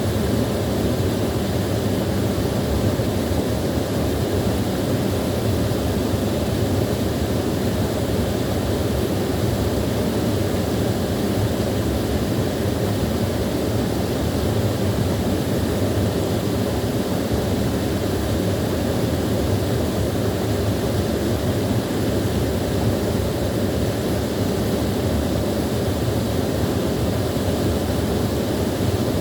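Small waterfall splashing and rushing steadily, a deep, even roar of falling water with no breaks.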